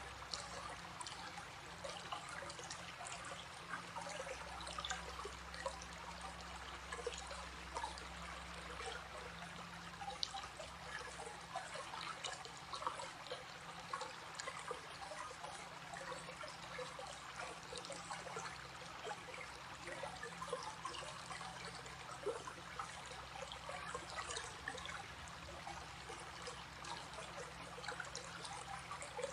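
Small stream flowing and trickling steadily over stones, a continuous bubbling water sound.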